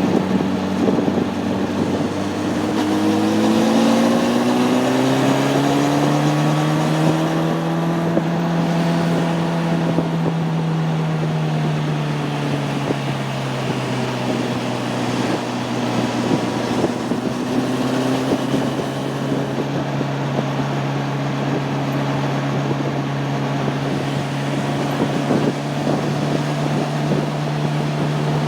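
Honda CB600F Hornet's inline-four engine under way. About three seconds in its pitch climbs for several seconds, then eases back and holds steady at cruising speed, with wind rushing over the microphone.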